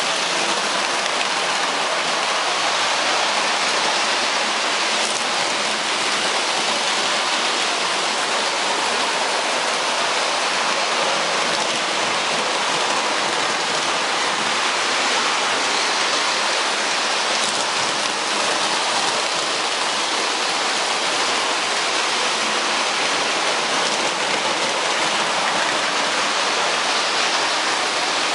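Steady, even rushing hiss with no rhythm, pitch or separate knocks.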